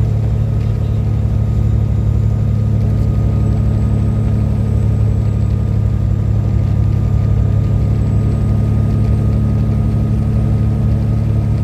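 Steady low engine drone and road noise of a truck cruising at highway speed, heard from inside the cab, with a faint steady whine above it.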